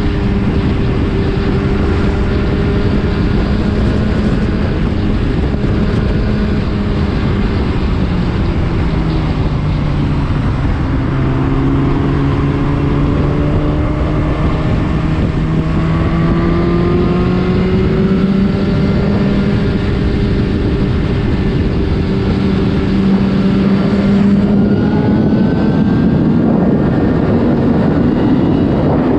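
Superbike engine with an Akrapovič exhaust running at a steady cruise, its note sagging about ten seconds in and slowly climbing again, over a rush of wind and road noise.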